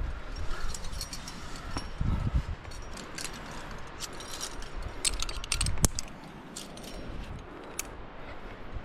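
Metal climbing gear clinking and jangling, carabiners knocking together in quick clusters of clicks, with a few dull knocks.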